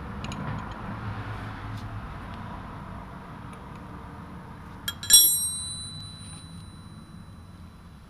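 A metal tool strikes a hard surface once with a sharp clink that rings on for about a second, over a low steady hum.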